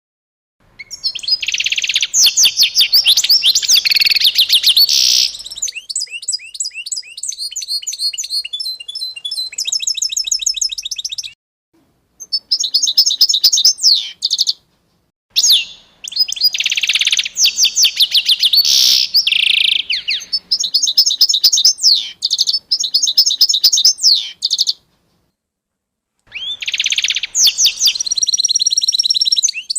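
Songbirds chirping and singing in rapid, high-pitched trills, in several runs of a few seconds each broken by short cuts to dead silence.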